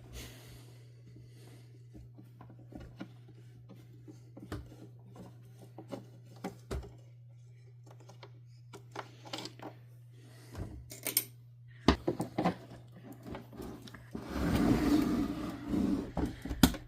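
Scattered clicks and knocks of hard plastic vacuum-cleaner parts being handled and worked on during disassembly, with a busier stretch of rattling and clattering near the end. A steady low hum runs underneath.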